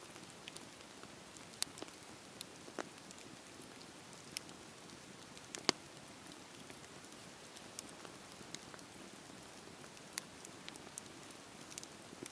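Wood fire in a fireplace crackling: a soft steady hiss with sharp pops and snaps at irregular moments, the loudest pop about halfway through.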